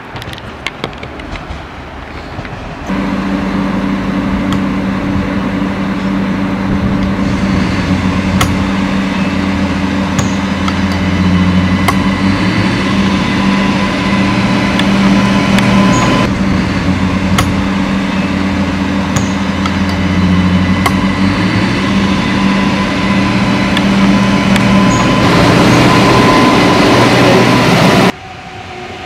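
Adelaide Metro 3000-series diesel railcar running along the line, its engine giving a steady drone with occasional sharp clicks from the wheels and track. The engine note shifts up slightly twice, and the sound is loudest as the railcar passes close, then cuts off suddenly.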